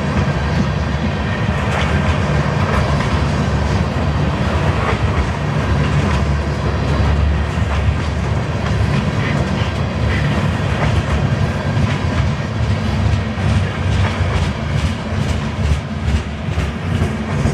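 Freight train cars rolling past at speed: a steady heavy rumble with the clickety-clack of wheels over rail joints, the clicks coming through more sharply near the end.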